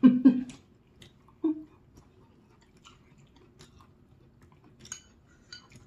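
A person chewing a mouthful of noodles, with faint, scattered wet clicks. There is a short vocal sound at the start and another about a second and a half in.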